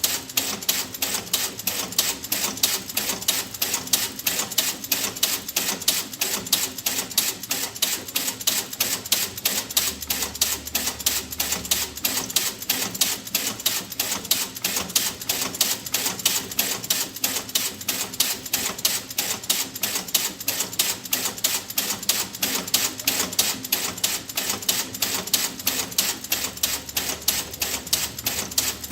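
Steady, rapid mechanical ticking: sharp, evenly spaced clicks that keep an unbroken rhythm.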